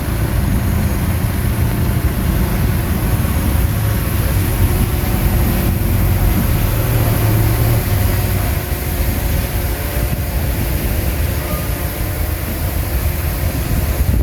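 Bulldozer's diesel engine running steadily with a deep, continuous rumble.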